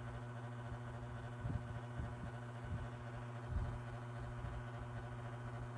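Steady low electrical hum with a few faint knocks.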